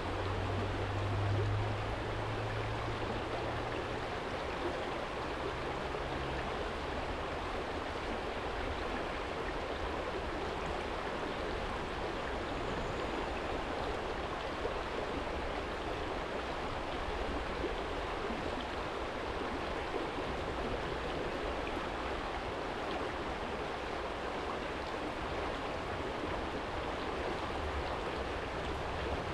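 Small shallow stream rippling over a stony bed, a steady even rush of water. A low hum sits under it at the start and fades out within the first few seconds.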